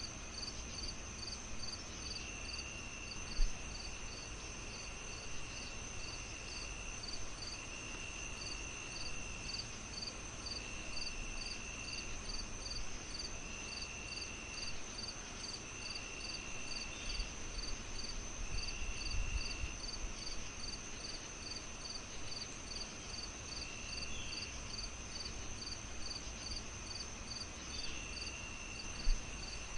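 Crickets and other insects chirping over a steady high insect hum: one chirps about twice a second, another trills in repeated bursts of a second or so. Two soft low thumps come about three seconds in and near the end.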